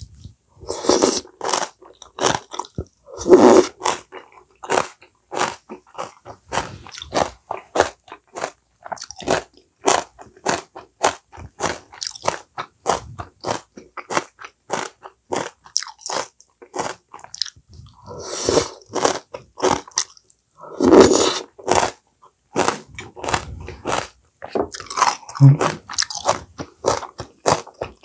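A person biting and chewing crunchy vegetables: a dense, irregular run of sharp crunches, with a few louder, longer crunches scattered through.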